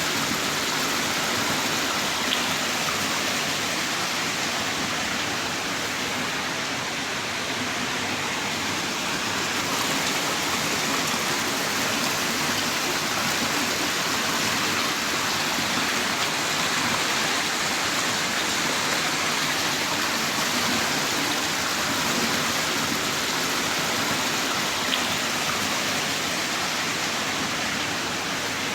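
Heavy rain falling in a steady downpour, a dense even hiss of drops with no letup.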